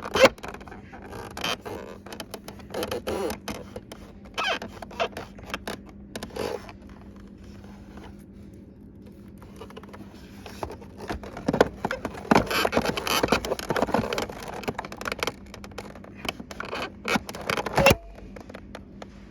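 Hands working on a refrigerator water valve assembly: irregular scraping, rubbing and clicking of parts being handled and fitted, busiest a little past the middle, with a faint steady hum underneath.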